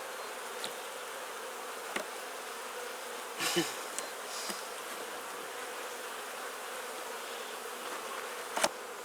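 Honeybees buzzing in a steady hum around an open Langstroth hive, with a few short sharp knocks from the wooden frames being handled, the loudest near the end.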